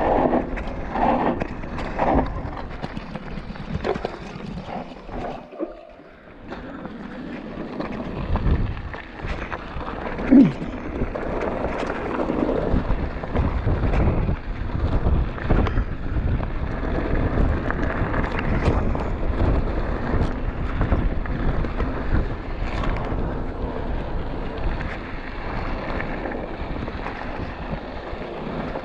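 Wind buffeting the microphone, a steady rough rumble, with scattered knocks and one brief falling squeak about ten seconds in.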